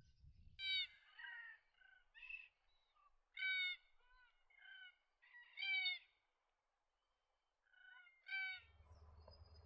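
Black kite calling: four loud short calls spaced about two and a half seconds apart, with softer notes between them. A low rumble starts near the end.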